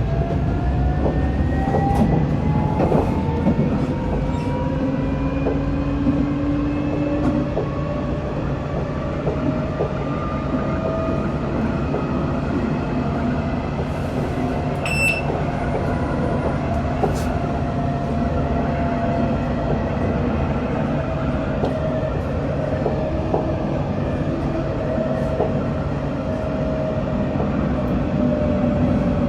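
Electric tram running between stops, heard from on board: the traction motors' whine rises in pitch as it accelerates over the first few seconds, then holds and eases slightly, over wheel and rail rumble with scattered clicks. A brief high beep sounds about halfway.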